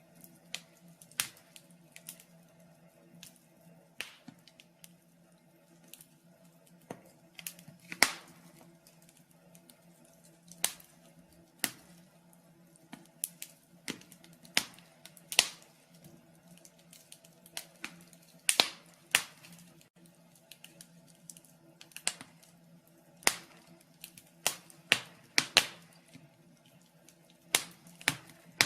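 Wood fire burning in a fireplace, crackling with irregular sharp pops and snaps, a few of them loud, over a faint steady hum.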